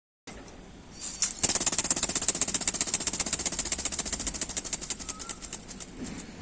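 Rubber-band-powered ornithopter flapping its wings as the twisted rubber motor unwinds: a rapid clatter of about ten beats a second that fades over the last couple of seconds as the band runs down.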